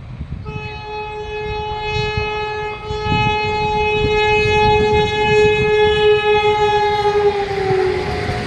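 Vande Bharat Express (Train-18) sounding one long horn blast for about seven seconds as it approaches, its pitch dropping near the end as it goes by. Under the horn, the train's rumble grows louder.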